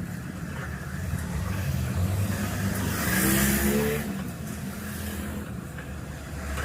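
A motor vehicle engine running, rising in pitch and loudest about three to four seconds in, then dropping back.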